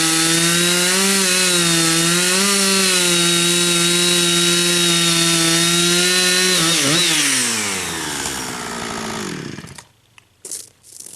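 Chainsaw running at high revs while cutting into dry spruce, its pitch dipping slightly under the cut. About seven seconds in the engine winds down and stops just before ten seconds, followed by a few short crunching noises.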